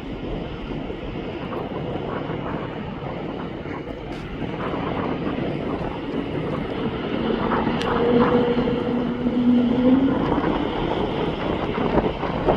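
Jet airliner passing, its engines making a broad rumble that grows louder over the second half, with a low steady hum that swells about seven seconds in and bends away after ten seconds.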